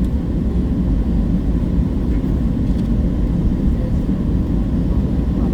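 Steady low rumble of an airliner's engines and airframe heard inside the passenger cabin.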